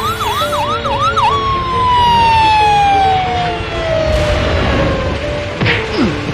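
Cartoon sound effect over background music: a siren-like whoop rising over and over, about four times a second, then one long falling whistle.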